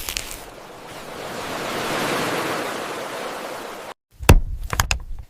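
Steady rushing of water, swelling about two seconds in. It cuts off abruptly near the end and is followed by a quick run of sharp clicks and knocks.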